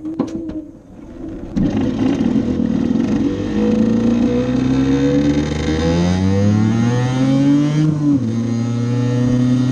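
Honda NSR50's small two-stroke single-cylinder engine comes in about one and a half seconds in and accelerates, its pitch climbing steadily. The pitch drops sharply about eight seconds in, as at an upshift, then climbs again.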